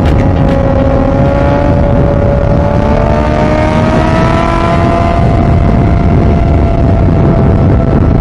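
Suzuki GSX-R600 K8 inline-four motorcycle engine under way at high revs, its pitch climbing slowly over about the first five seconds and then holding steady, with heavy wind rush on the bike-mounted microphone.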